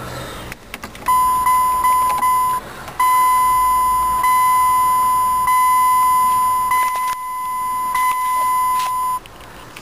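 A car's dashboard warning beeper sounding one continuous high electronic tone. It starts about a second in, breaks briefly once, is crossed by a few short clicks, and cuts off shortly before the end.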